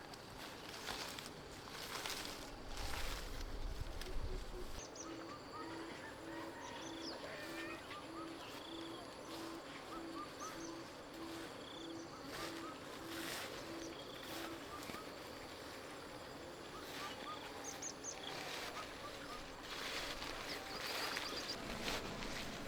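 Outdoor ambience with birds: a low hooting call repeated at about two a second for some ten seconds from about five seconds in, over small high chirps from other birds, with a few brief rustles.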